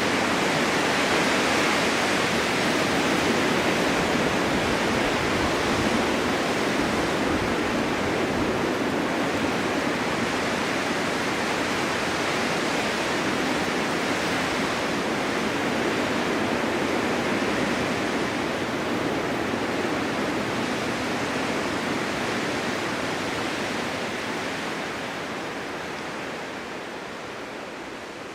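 Blizzard wind blowing snow across a winter mountain: a steady rushing noise that swells and eases slowly, fading out over the last few seconds.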